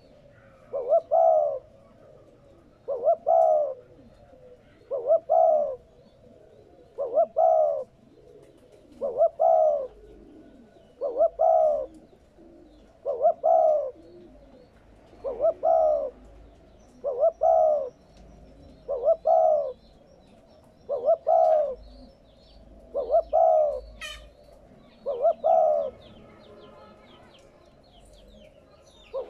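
Spotted dove cooing: a short phrase of two or three low, hoarse coos repeated steadily about every two seconds. It is the territorial call that keepers play as a lure for wild doves.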